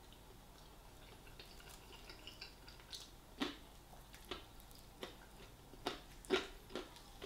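Wet smacking and clicking from a person chewing fried chicken. A run of irregular sharp clicks starts about three seconds in and is loudest near the end.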